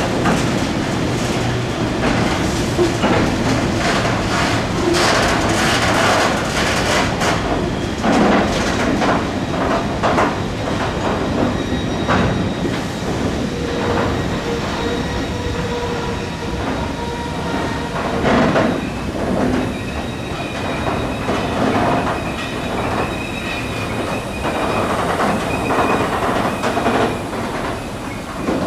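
Train moving over the tracks, its wheels clicking over rail joints and points, with thin wheel squeals joining in during the second half.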